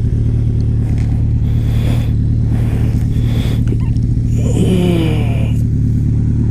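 Sport motorcycle's inline-four engine running at a steady pace while riding, with road and wind noise. About four and a half seconds in, a brief sound falls in pitch over it.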